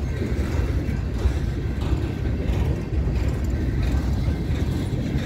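Freight train's tank cars and covered hopper cars rolling past, a steady low rumble of steel wheels on rail.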